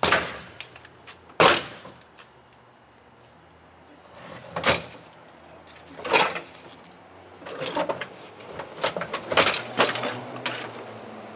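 About half a dozen sharp knocks and clunks at uneven intervals, the loudest right at the start and about a second and a half in, with quieter ones spread through the rest.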